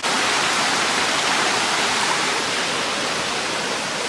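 Steady rush of water from a small stream flowing over rocks, close by. It starts abruptly and holds even.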